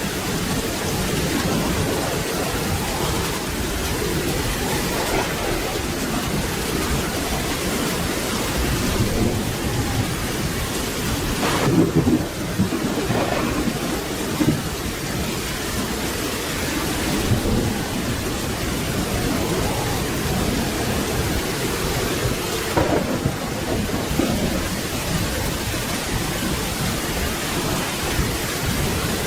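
Steady rain with low rumbles of thunder, and a sharper, louder clap about twelve seconds in.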